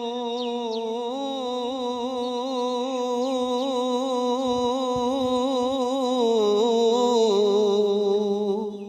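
A male singer holds one long, wavering sung note in a Punjabi Sufi devotional song (kalam). The note steps up about a second in and slides down to a lower pitch around six seconds in and again near the end.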